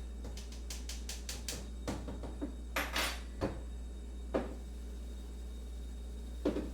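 Kitchen crockery and cutlery clinking: a quick run of light clicks, then a few separate knocks and a brief clatter, over a steady low hum.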